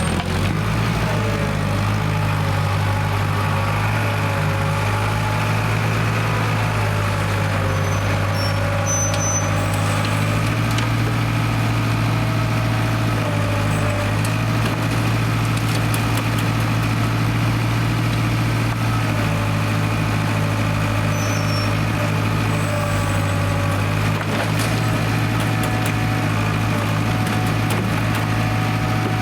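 Diesel engine of an International Harvester 270A backhoe running steadily, fitted with its rebuilt injection pump.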